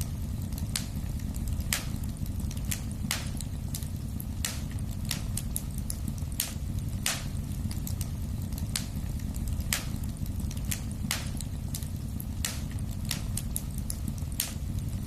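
Wood fire in a fireplace crackling: sharp, irregular pops and snaps, about one or two a second, over a steady low rumble of the flames.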